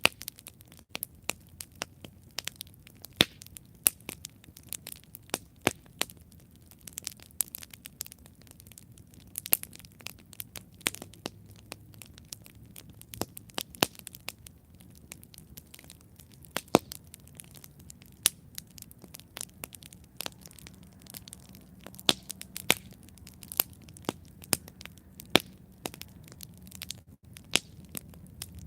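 Campfire burning, with many irregular sharp crackles and pops from the burning wood over a faint low hum.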